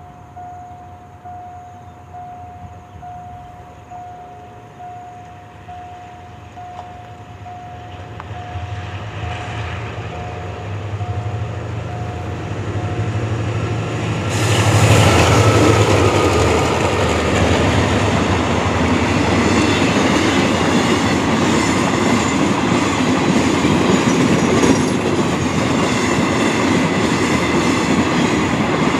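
A level-crossing warning signal sounds a steady pulsing tone while the diesel-electric locomotive GEA-4559 approaches, its engine rumble growing louder. About halfway through the locomotive passes close and the sound jumps sharply. A long train of crude-oil tank wagons then rolls by with a rhythmic clickety-clack of wheels over rail joints.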